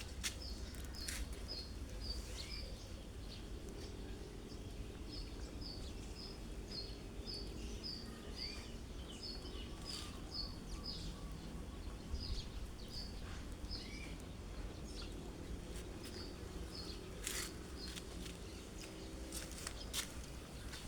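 A small bird chirping: runs of short, high chirps, about three a second, repeated again and again with brief pauses between runs.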